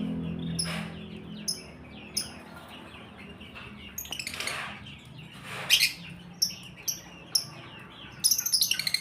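Lovebirds chirping: short, sharp high-pitched chirps repeated throughout, two louder screechy calls in the middle, and a rapid run of chirps near the end.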